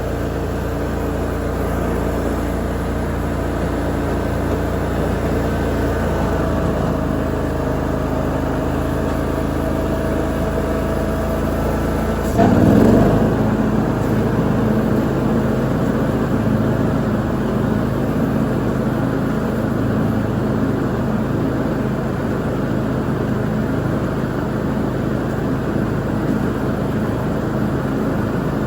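Lawn mower engine running steadily while mowing, with a brief louder surge about twelve seconds in, after which its note changes.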